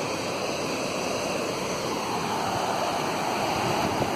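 Fast, high-running mountain creek rushing steadily: a continuous, even wash of whitewater noise.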